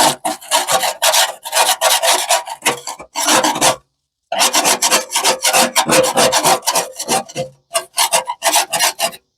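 Rapid back-and-forth hand scrubbing of rusted steel under flaking paint, several strokes a second, with two short pauses.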